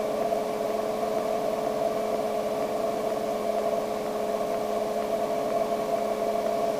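Light aircraft engine and propeller at idle, a steady hum of several tones over an even rush of air noise as heard in the cockpit, with the throttle closed for a simulated engine failure during a glide approach.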